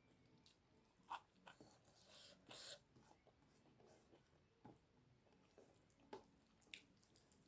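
Quiet close-up eating sounds: soft chewing with scattered mouth clicks and smacks, and a brief hissy noise between about two and three seconds in.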